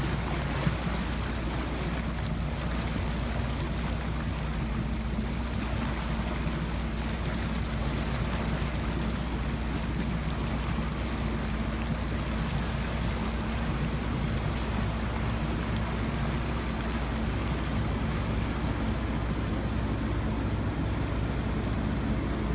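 1987 Marinette 32 motor yacht's engine running steadily, with a constant rushing of water.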